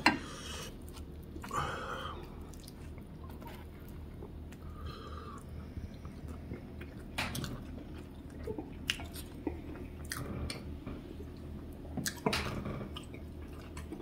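A man chewing a mouthful of chapati and lamb curry, with scattered small clicks and wet mouth smacks and a sharp click right at the start.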